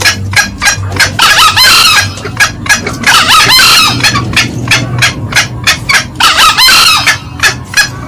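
Green junglefowl calling: a rapid, steady run of short clucks, the cackle used as a lure call. A longer rooster crow cuts in three times: about a second in, around three seconds, and near seven seconds.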